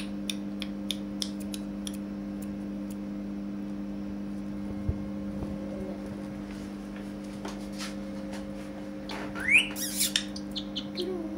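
Ringneck parakeet making a string of sharp clicks, then one short rising whistle about nine and a half seconds in, followed by a few more clicks. A steady low hum runs underneath.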